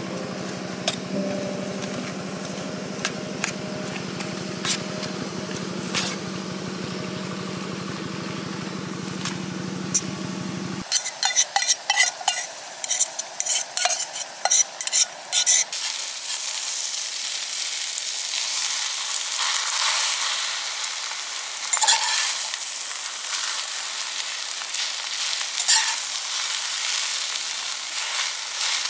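Food frying in a pan, a steady sizzle with scattered crackles, and a burst of utensil clicks and clatter partway through. A steady low hum runs under the first third and cuts off abruptly.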